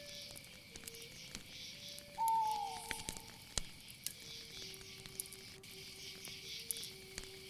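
Crickets chirring steadily in a night soundscape, with a soft slow melody of held notes underneath and scattered light clicks. About two seconds in, a single short falling call rises above them.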